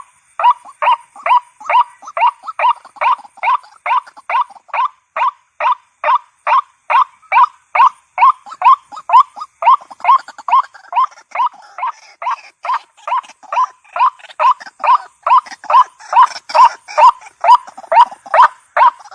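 White-breasted waterhen (ruak-ruak) calling over and over in a steady rhythm, about two to three short calls a second. It is the female's call, played as a lure to draw the birds out.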